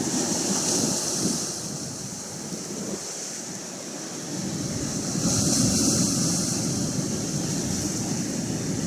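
Atlantic Ocean surf: waves washing in as a steady hiss that swells at the start and again about five seconds in, with some wind noise on the microphone.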